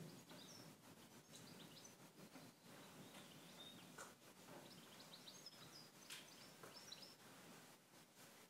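Near silence: faint outdoor ambience with a few distant bird chirps, clustered near the start and again later on.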